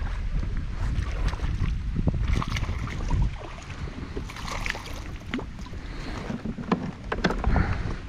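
Wind rumbling on the microphone out on a fishing kayak, with a few sharp knocks and small water sounds scattered through.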